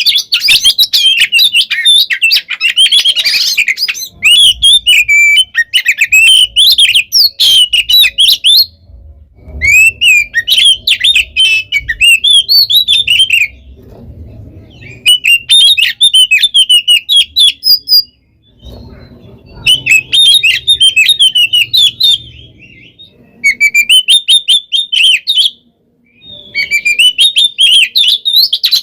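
Oriental magpie-robin (kacer) singing loudly in its aggressive, fighting-style song: fast runs of shrill chirps, whistles and harsh notes in phrases of a few seconds, broken by brief pauses. This is the kind of song used to provoke other magpie-robins into answering.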